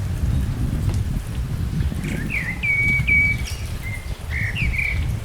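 Wind buffeting the microphone with a constant low, uneven rumble. About two seconds in, a small songbird sings a short run of high chirps and brief whistled notes lasting roughly three seconds.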